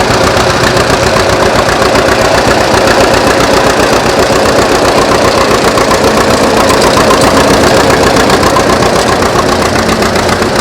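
Antique John Deere tractor engine running steadily, with an even, rapid firing beat.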